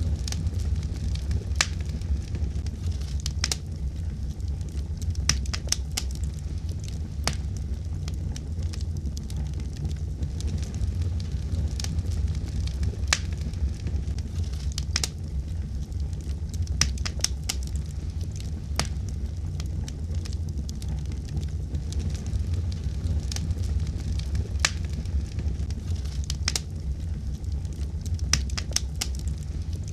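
Wood fire crackling in a fireplace: irregular sharp pops and snaps, several close together at times, over a steady low rumble.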